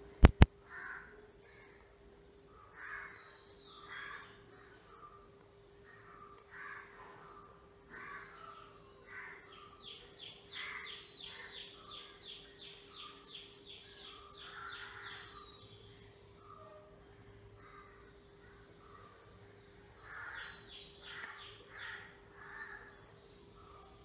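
Birds calling outside: short calls repeated about once a second, with a fast, even run of notes, about four a second, lasting some five seconds in the middle. Two loud sharp clicks just after the start, and a steady low hum underneath.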